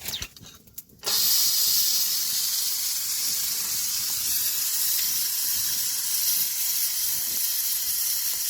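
Heavy rain falling as a steady hiss, starting suddenly about a second in.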